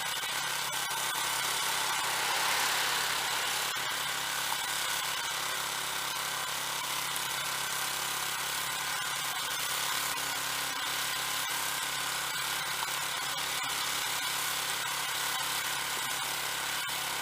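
Snow blower engine running steadily, with a brief swell in its higher noise about two to three seconds in.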